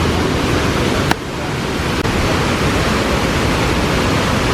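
Steady rushing roar of the Düden Waterfalls, loud and even, with a single sharp click about a second in.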